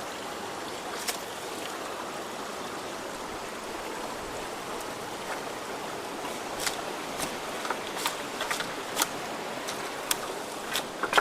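Creek water rushing steadily through a culvert after rain. From about halfway on, scattered sharp clicks and knocks sound over the water.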